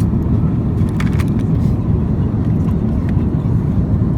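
Steady low rumble of airflow and Rolls-Royce Trent XWB engines heard inside the cabin of an Airbus A350-900, with a few light clicks about a second in.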